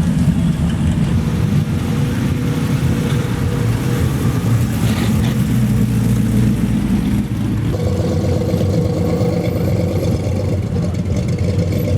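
Car engines running at low speed as vehicles roll slowly past; the engine note changes about eight seconds in.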